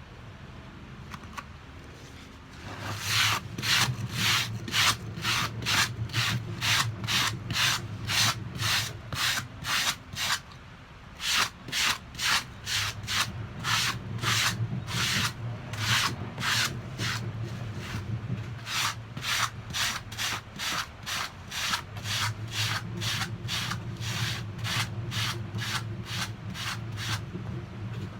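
Rhythmic scrubbing strokes, about two to three a second, with a short pause about ten seconds in, over a steady low hum.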